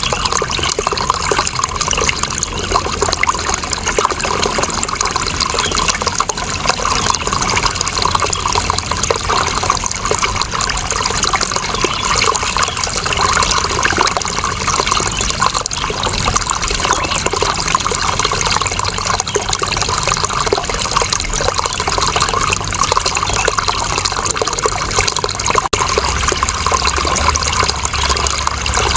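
Running water flowing steadily, an even, unbroken rush and trickle that doesn't change in level.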